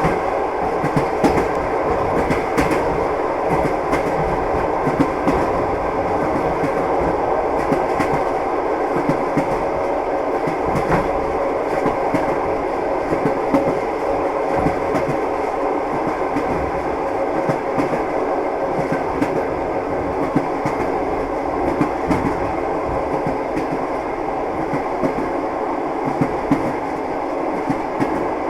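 A moving train's wheels clattering on the rails over a steady running rumble, with frequent short clicks and knocks.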